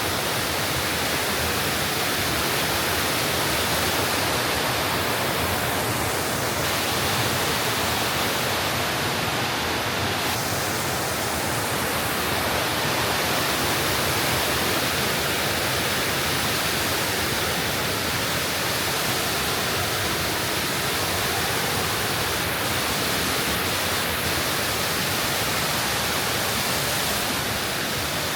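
Rushing water of a mountain stream and its falls: a steady, even rush with no let-up.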